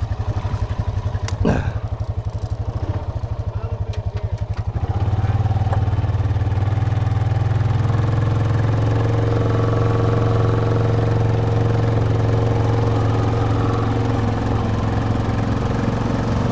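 Honda Rubicon ATV's single-cylinder engine chugging at low revs, then about five seconds in it opens up and runs louder and steadier under load.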